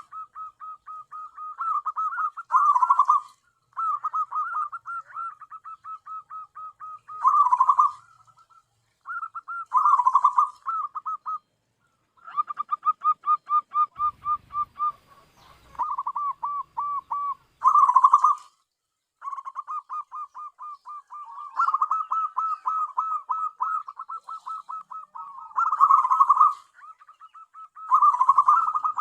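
Zebra dove (perkutut) cooing: long runs of rapid, short staccato coo notes, repeated phrase after phrase, with louder bursts every few seconds.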